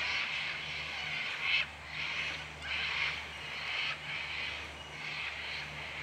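Birds in the bush calling again and again, rough calls coming about once or twice a second, over a low steady hum.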